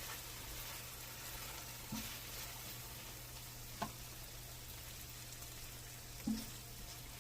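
Strips of chicken thigh sizzling steadily in a pan, with the burner just turned off. Three light knocks come at about two, four and six seconds in.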